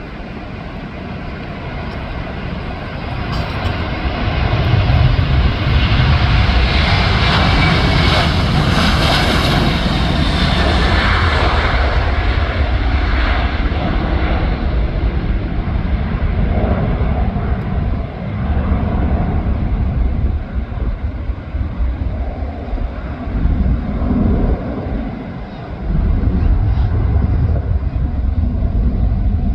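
Twin CFM56-7B turbofans of a Boeing 737-900 at takeoff thrust. The sound swells to its loudest as the jet passes, with a high whine sliding down in pitch. It then eases into a low rumble that rises and dips as the aircraft moves away.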